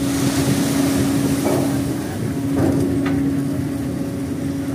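Heavy diesel engine running steadily with a constant low hum, a brief hiss in the first second and a few short knocks about halfway through.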